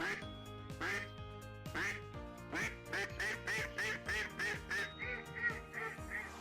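Duck quacking: a few spaced quacks, then a quick run of about three a second, over background music with steady held tones.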